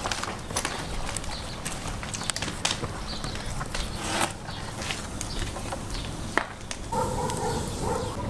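Irregular clicks and knocks, with a short steady tone near the end.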